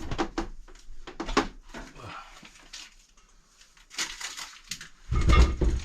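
Hard household items knocking and clattering as they are lifted off and moved around a kitchen counter. Near the end comes the loudest sound, a heavy thud as a KitchenAid stand mixer is set down.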